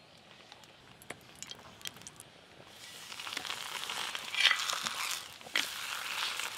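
Oil sizzling on a hot tawa as a raw lachcha paratha fries, the hiss starting about three seconds in and holding steady, with a couple of sharp louder spits. Before it, a few light clinks of a metal spatula.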